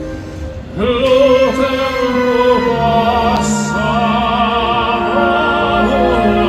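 Live orchestral music in a slow, lyrical operatic style, with held melody notes and vibrato. It dips briefly, then swells about a second in.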